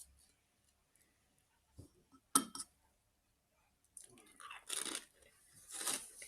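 A potato crisp bitten with a sharp crunch about two seconds in, then chewed, crackling in several short crunches through the last couple of seconds.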